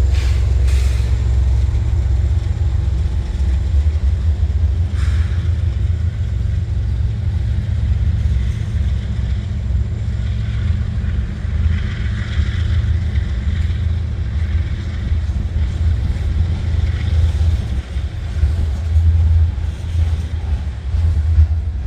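Union Pacific freight train rolling past, a loud, steady low rumble.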